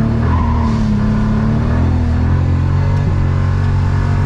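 BMW N54 3.0-litre straight-six engine running steadily under load, heard from inside the cabin, pulling cleanly without misfiring.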